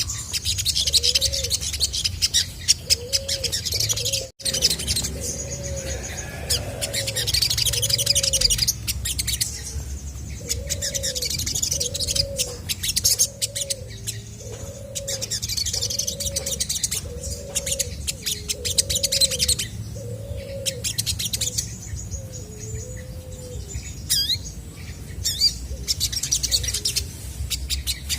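Olive-backed sunbird chirping in rapid bursts of high, sharp notes, with short pauses between the bursts. Under it runs a long, even series of low, arched hooting notes, a little under one a second, until near the end.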